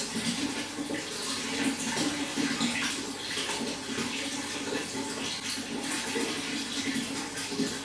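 Water running steadily, with small irregular splashes.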